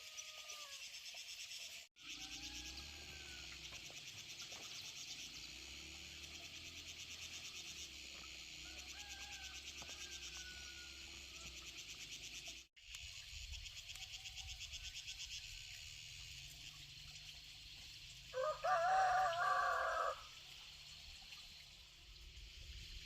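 A rooster crows once, loudly, for about two seconds, over a steady pulsing high-pitched buzz of insects, with faint short bird calls.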